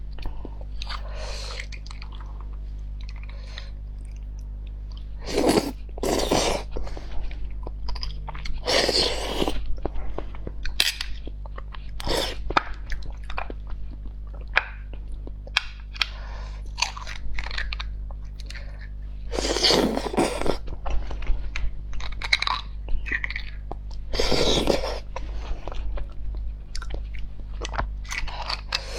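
A person eating close to the microphone: chewing and biting with crunching, in irregular bursts with several louder ones. A steady low hum runs underneath.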